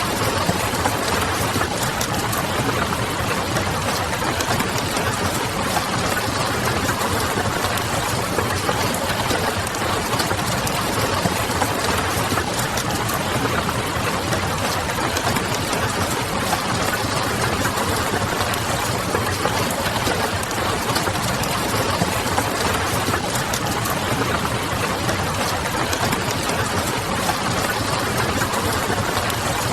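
Steady rain pattering mixed with the crackle of a wood fire and a low, distant city hum: an even, continuous hiss dotted with many small ticks.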